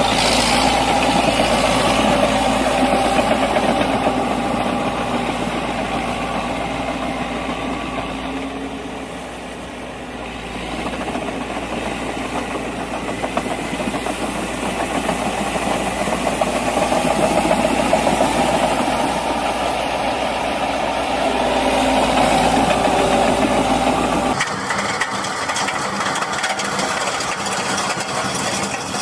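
Walking tractor's diesel engine running steadily, fading somewhat about a third of the way in and swelling up again. About three-quarters of the way through it cuts abruptly to a thinner engine sound without the low rumble.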